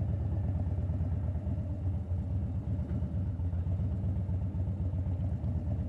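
Harley-Davidson Dyna Fat Bob's air-cooled V-twin engine running steadily under the rider, a low, even, rapidly pulsing exhaust note.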